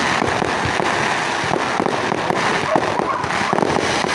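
Fireworks going off in a dense, continuous barrage of many small overlapping bangs and crackles.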